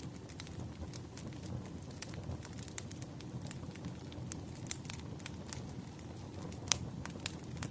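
Campfire crackling: a steady low rush of burning wood with frequent sharp pops and snaps, one louder pop near the end.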